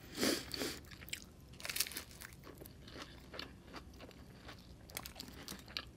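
Close-miked crunching and chewing of a crispy fried egg roll. The wrapper crackles in many small sharp crunches, loudest in the first second.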